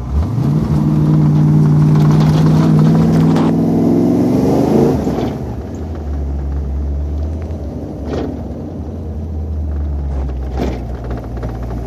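Ford Mustang GT's 5.0-litre V8 heard from inside the cabin, revving up hard at the start and pulling under load for about five seconds with its pitch climbing, then the throttle lifts and it drops back to a low rumble. A few sharp clicks come later.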